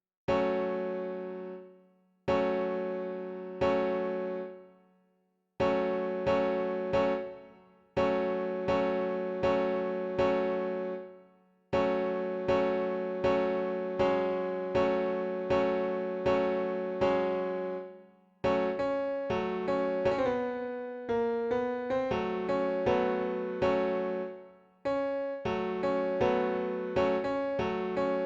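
Electric piano melody played in struck chords that ring and fade, in a slow repeating pattern. About two-thirds of the way through it turns into a busier run of quicker notes with moving pitch, then returns to the chord pattern.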